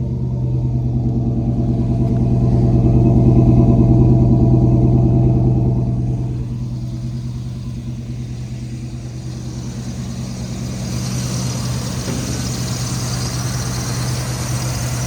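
GM Goodwrench 350 small-block Chevy V8 with a Quadrajet carburetor idling steadily. The sound grows louder for a few seconds, eases off about six seconds in, and a hiss joins it in the last few seconds.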